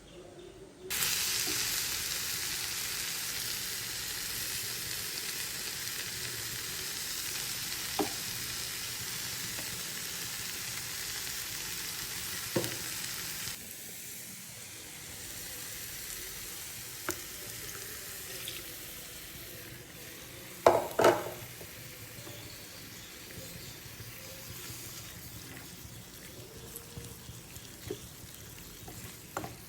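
Food sizzling in hot oil in a pan, starting suddenly about a second in as something goes into the pan. The sizzle drops to a quieter, steady frying about halfway, with a few light utensil knocks and a louder double clatter around two-thirds through.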